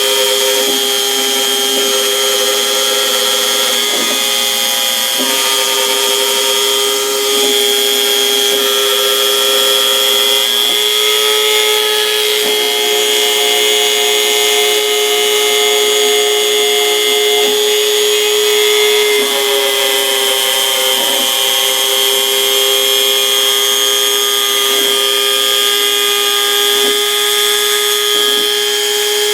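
Home-made CNC router cutting 4 mm plywood: the spindle runs with a steady high whine while the axis motors hum at lower tones that jump to new pitches every few seconds as the cutting moves change.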